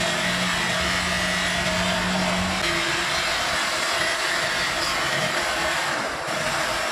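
Handheld electric power tool running steadily, a continuous motor whir and hiss, as used in headlight polishing.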